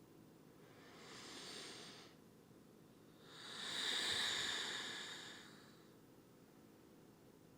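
A person breathing audibly: a softer breath about a second in, then a longer, louder breath from about three to six seconds in.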